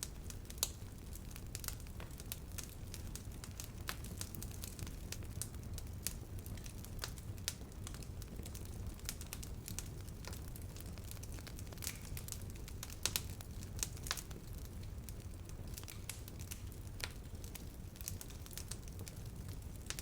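Campfire crackling: irregular sharp pops and snaps, a few louder than the rest, over a low steady rumble of burning wood.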